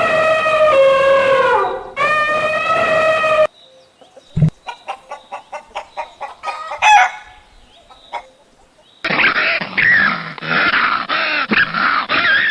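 Chickens: a rooster crows twice in long, held calls, the first dropping in pitch at its end; then a hen gives a quick run of short clucks, and near the end a flock breaks into dense, overlapping squawking and chatter.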